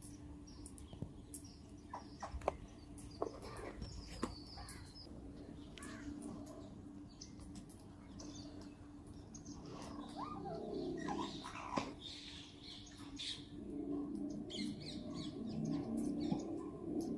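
Parrots chirping and calling at a feeding spot, with many sharp clicks scattered through and a steady low hum underneath; the calls grow busier in the second half.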